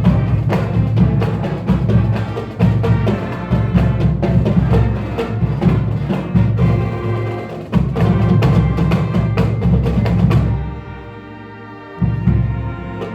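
Marching band music with heavy drums and percussion. About ten seconds in the drums stop and a held chord sounds alone, then low drum hits come back near the end.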